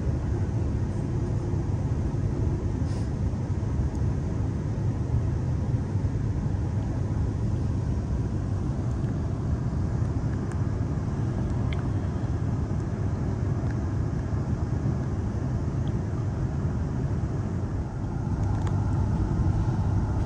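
Steady low rumble of an electric suburban train running along the track, heard from inside the carriage, with a few faint ticks.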